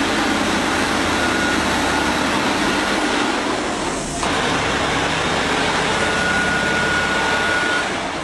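Heavy truck running under load on a slope: a steady, loud rush of engine and drivetrain noise with a thin high whine that comes and goes. A brief dip about four seconds in.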